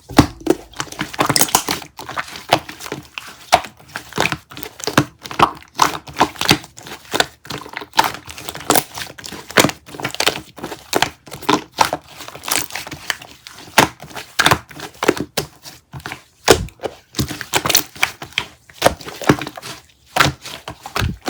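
A dense, irregular run of sharp clicks and crackles, several a second, with occasional louder snaps.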